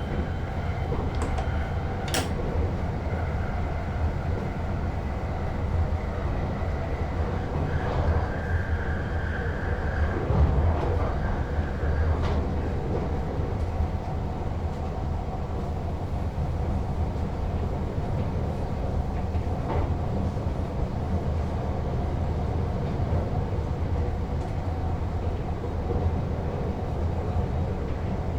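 Steady rumble of an NS Sprinter Lighttrain (SLT) electric multiple unit running on the rails, heard from inside the driver's cab, with a few sharp clicks and a brief higher whine about a third of the way in.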